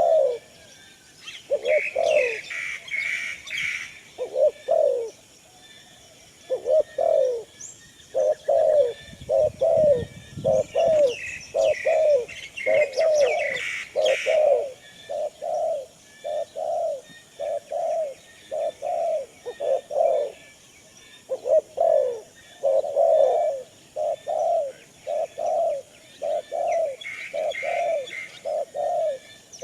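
Doves cooing in short, evenly repeated notes, about two a second. Bursts of higher chirping come in three times: near the start, about halfway through and near the end.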